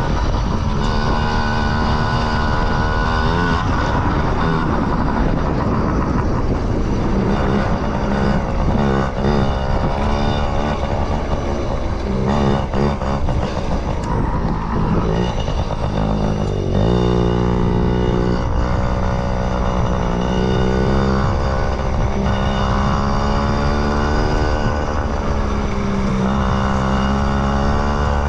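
Yamaha PW50's small two-stroke single-cylinder engine running under way, its pitch rising and falling with the throttle, with a sudden change in pitch about seventeen seconds in.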